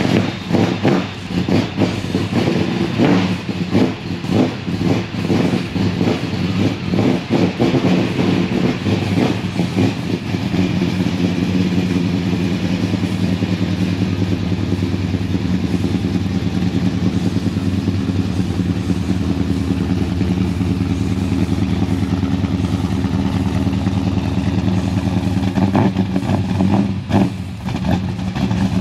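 A 512 cubic inch big-block V8 in a 1969 Dodge Charger R/T, just after a cold start. For the first ten seconds or so it runs unevenly with swells of throttle, then settles into a steady, deep idle. Near the end it dips briefly and picks up a few more blips.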